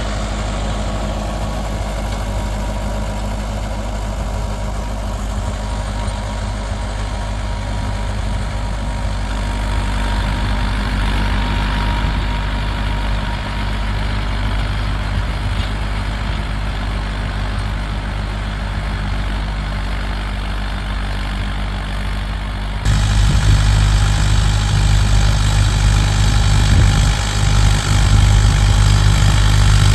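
Mahindra 575 DI XP+ tractor's four-cylinder diesel engine running steadily. About 23 s in, the engine sound suddenly gets louder and deeper.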